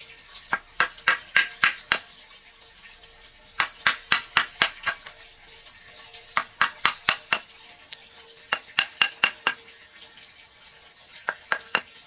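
Sharp tapping strikes in five quick runs of about five to eight taps each, roughly five a second, with short pauses between the runs, over a steady high insect drone.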